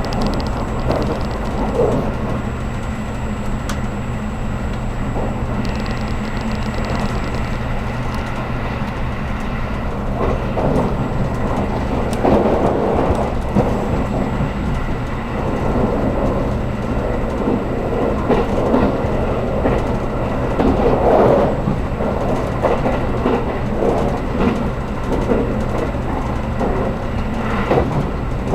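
Running noise of a 783 series electric multiple unit heard inside the passenger car: a steady rumble of wheels on rail with a constant low hum, growing rougher in stretches around the middle.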